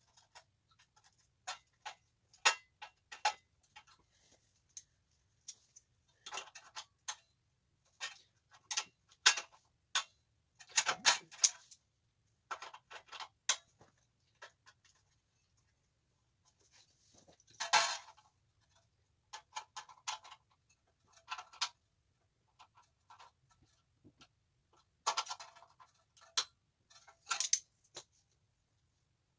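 Irregular metallic clicks and clinks of hand tools and hardware fitting a minibike chain guard, coming singly and in short clusters. The clatter is loudest about eleven seconds in and again about eighteen.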